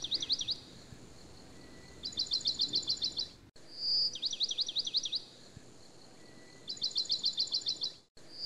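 Birdsong repeating in a fixed cycle: a short high whistle followed by a fast run of chirps, alternating with a quicker chirping trill, about every two seconds. The sound drops out completely for an instant twice, at about three and a half and eight seconds in.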